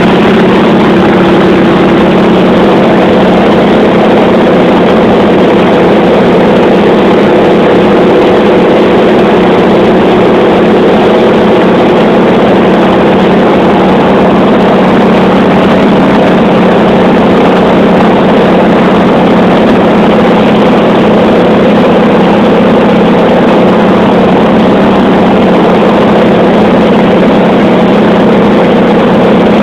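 Piston aircraft engine and propeller running with a steady, loud drone, heard from on board in flight.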